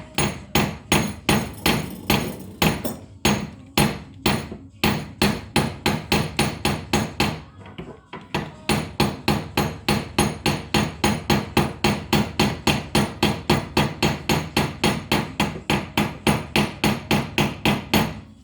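Hammer blows repeated in a fast, steady rhythm of about three to four a second, with a short pause about eight seconds in.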